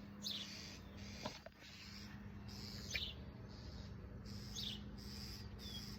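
Small songbirds giving short, sharp, high calls that sweep downward, repeated about every second: parent birds calling in agitation over their fallen fledgling.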